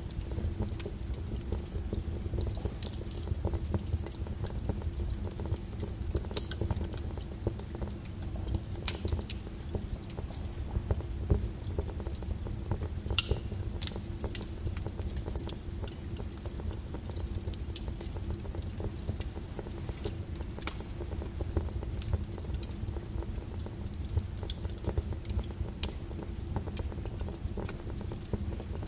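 Wood fire crackling in a fireplace: a steady low rumble of the flames with irregular sharp pops and snaps scattered throughout.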